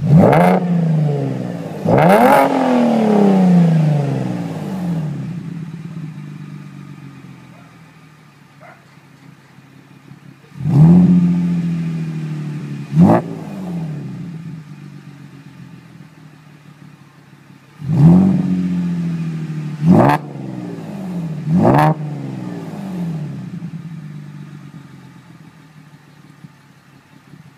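V6 Chevrolet Camaro with an MRT V2.0 exhaust, revved in quick throttle blips from idle. There are two near the start, two about eleven seconds in and three about eighteen seconds in. Each rev jumps up sharply, then winds slowly back down to a steady idle.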